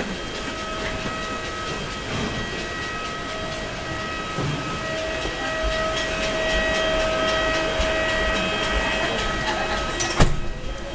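Steady mechanical drone with a high steady whine, ending in a sharp click about ten seconds in.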